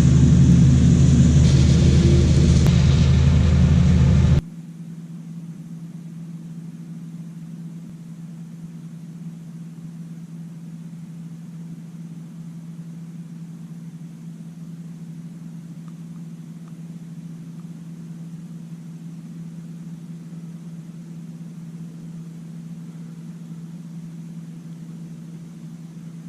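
Combine harvester engine running in a cornfield: loud and close with a heavy rumble for about four seconds, then cutting off abruptly to a steadier, fainter engine drone for the rest.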